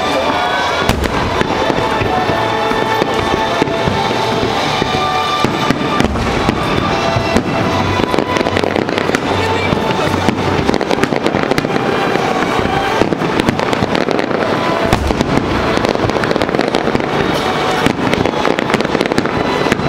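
Fireworks display: a dense, continuous run of shell bursts and crackling bangs with no lull, with music playing underneath.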